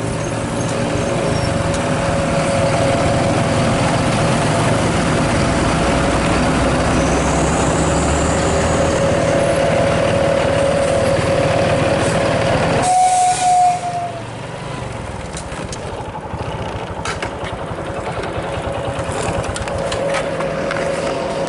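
Bus with a modified 'srigala' howling exhaust: a steady whistle-like howl over the diesel engine running. About two-thirds of the way through, the low engine noise drops off suddenly, a brief higher whistle sounds, and the howl carries on more quietly.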